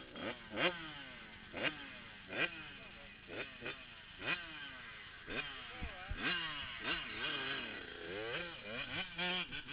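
Several motocross dirt bikes revving hard. Their engine notes jump up sharply and then fall away again and again as riders work the throttle and shift, with more than one bike heard at once.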